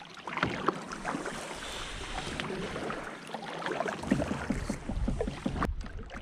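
Kayak being paddled across shallow marsh water: paddle strokes splashing and dripping, water lapping at the hull, and scattered light knocks against the boat. A low rumble joins about four seconds in.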